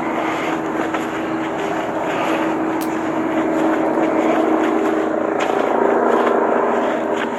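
Steady engine drone with a held hum, growing somewhat louder in the middle and easing again near the end.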